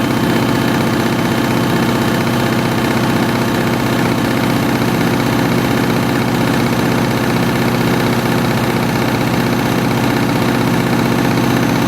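Washing machine on its spin cycle, a steady motor hum and drum whine that holds one speed throughout. The owner reckons it reached only about 800 rpm rather than its fastest spin.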